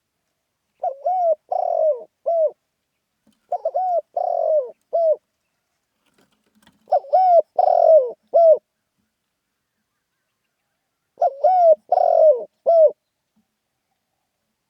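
Spotted dove cooing in its rousing 'khan yon' call: four phrases of three or four short coos each, a few seconds apart.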